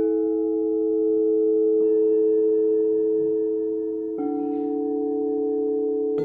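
Singing bowls struck one after another, a new bowl entering about every two seconds, each ringing on under the next in a layered, sustained hum of overlapping tones.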